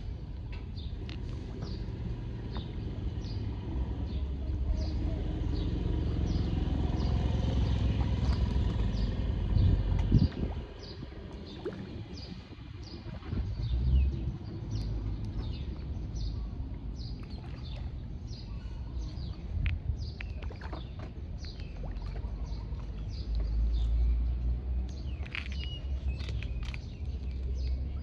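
A bird repeating a short, high chirp at a steady pace, a little under a second apart, over a low background rumble.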